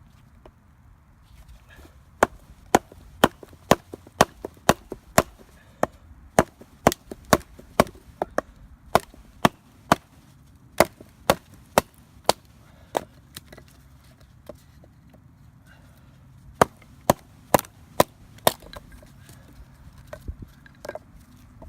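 Wood being chopped with a big Schrade bushcraft chopper knife: sharp, separate strikes at about two a second, a pause near the middle, then a shorter run of strikes and a few lighter knocks near the end.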